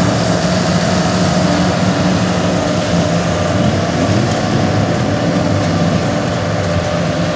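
2004 GMC Duramax 6.6-litre V8 turbodiesel pickup running hard and steady under load while pulling a weighted sled in a truck pull.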